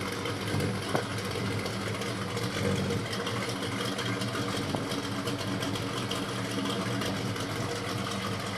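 Pontiac Beaumont's engine idling steadily, its drive belt one the owner calls squeaky.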